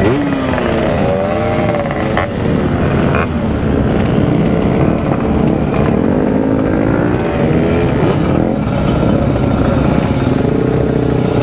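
Yamaha RX-King 135 cc single-cylinder two-stroke motorcycle running hard at speed, its engine pitch rising and falling as the revs swing.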